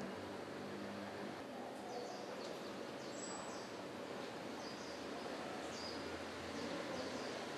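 Outdoor ambience: a steady background hiss with faint, short, high bird chirps scattered through the middle.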